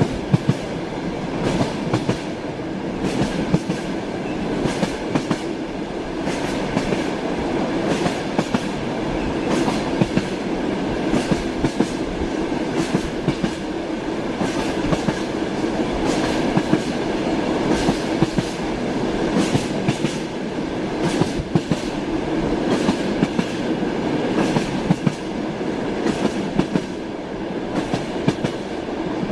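Train wheels clattering over rail joints, a steady rumble with frequent sharp clicks.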